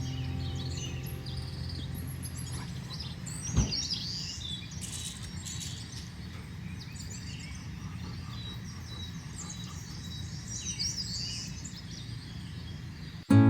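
Summer forest ambience: small birds chirping and calling at scattered moments over a steady, thin, high tone and a low background wash. A single dull knock comes about three and a half seconds in.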